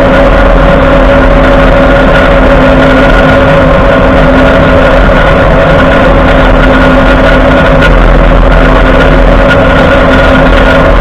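Steady, loud grinding drone with a constant whine from the front end of a Ford F-150, heard from under the truck while driving: the front axle shaft keeps spinning with the wheel in 2WD. The uploader puts this down to an integrated wheel end (IWE) failure, which the dealership takes for a locked-up wheel hub.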